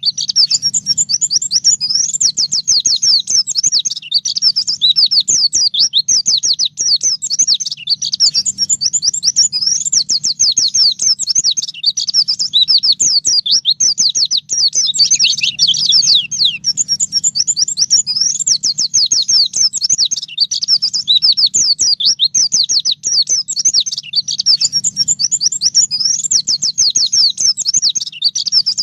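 White-eye (pleci) singing a fast, unbroken run of high chirps and quick sweeping notes, the rapid 'nembak' style of song, over a faint steady low hum.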